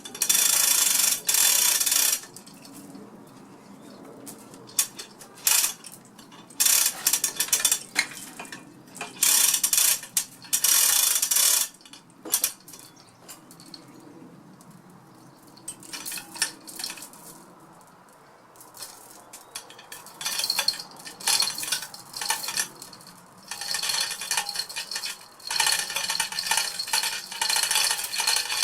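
Steel chain of a hand-operated chain block clinking and rattling as it is hauled through the hoist, in intermittent runs with quieter gaps in between. The runs are densest at the very start and over the last few seconds.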